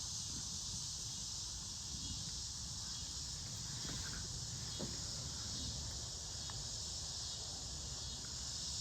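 Steady chorus of insects, a dense high-pitched buzz without a break, over a low rumble.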